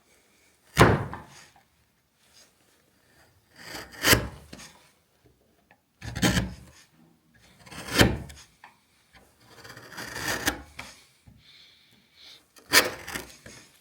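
A wood chisel cutting through end grain in about six separate strokes, roughly every two seconds. Each stroke starts with a sharp crack and trails off into a short scraping tail.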